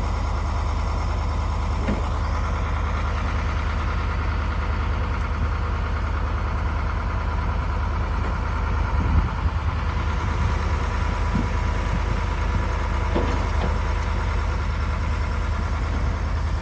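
Truck engine idling steadily, with a brief louder thump about nine seconds in.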